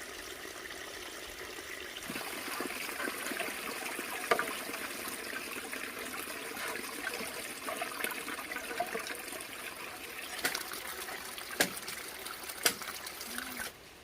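Water trickling and splashing in a steady stream, with a few sharp knocks; the flow cuts off suddenly near the end.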